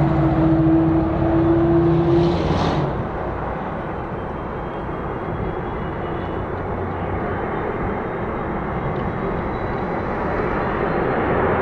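Jet airliner engines running loud. A steady humming tone stops about three seconds in, leaving a broad rush that swells again near the end.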